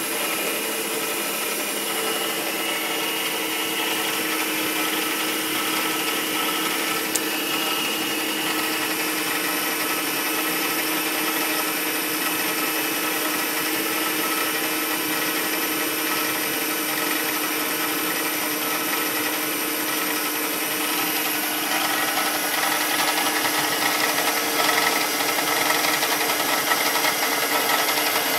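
2003 Mazda 6's 2.3-litre L3 four-cylinder engine running cold, with a loud knocking and rattling that the owner hears from the right wheel arch and the alternator side. The sound appears only while the engine is cold and goes once it reaches operating temperature. It grows louder about three quarters of the way through.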